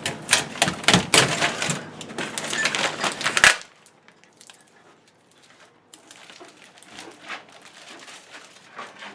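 Packing tape being peeled off an appliance handle: a fast, dense crackling with many small clicks that stops sharply with a louder click about three and a half seconds in. Only faint, scattered handling clicks follow.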